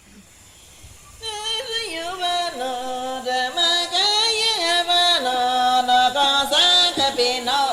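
A voice singing an icaro, a shamanic healing chant, in long held notes with vibrato that step up and down in pitch, starting about a second in.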